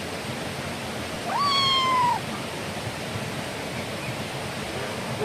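A single drawn-out animal call, about a second long, that rises at the onset and then falls slightly in pitch, heard over a steady rushing hiss.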